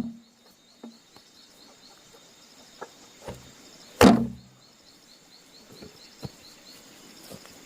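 One heavy knock, like a blow struck on wood, about four seconds in, with a few faint clicks and taps around it. Small high chirps from a bird or insect repeat about three times a second through the middle.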